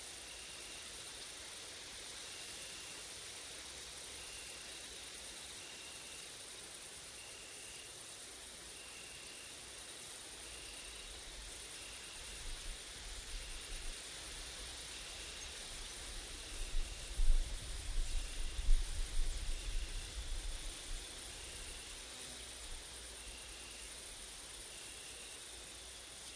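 Grasshoppers and crickets stridulating in a steady high drone, with one insect giving a short chirp about every second and a half. Wind gusts buffet the microphone in the middle, loudest about two-thirds of the way through.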